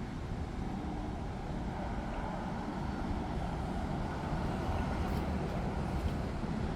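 Steady road traffic noise, a passing vehicle's engine and tyres, gradually getting a little louder.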